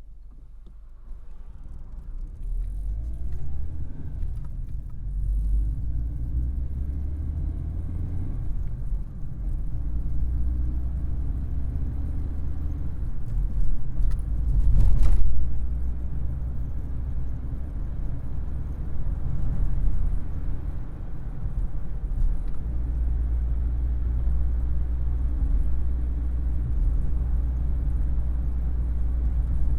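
Vauxhall Carlton's engine running with a deep, steady rumble. It builds up over the first couple of seconds, rises in pitch a few times early on, and swells louder with a brief rush of noise about halfway through.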